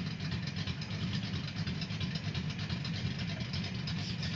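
Ford truck engine running steadily at low speed, a rough, even rumble with no revving.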